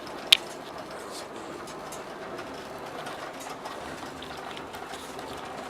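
Steady running noise of a moving sleeper train heard inside the compartment, with a single sharp click about a third of a second in.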